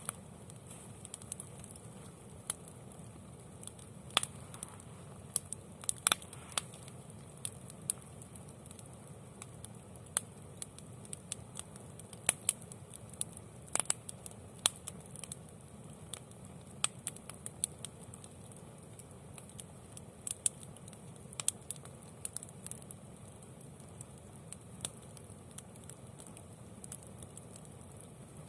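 Wood campfire burning, crackling with irregular sharp pops and snaps, a few of them much louder than the rest, over a steady low background.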